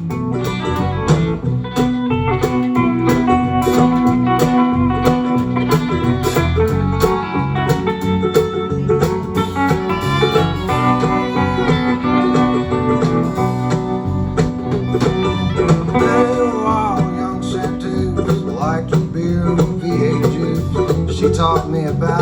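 Country band playing live in an instrumental passage led by guitar, with a steady beat.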